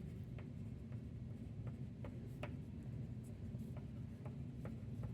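Faint, irregular light ticks of a drawing tool making short strokes on paper, roughly one every half second, over a low steady hum.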